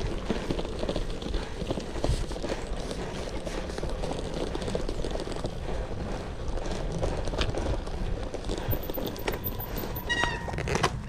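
Gravel bike rolling over a rough forest road: tyres crunching and rattling over stones, the bike clattering, with wind rumbling on the microphone. A brief high squeak about ten seconds in.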